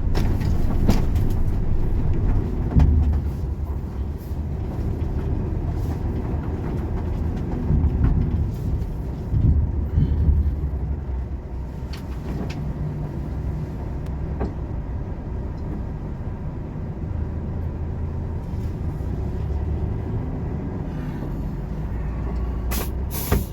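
Volvo truck's diesel engine running at a low, steady drone, heard inside the cab, with a few short knocks and rattles.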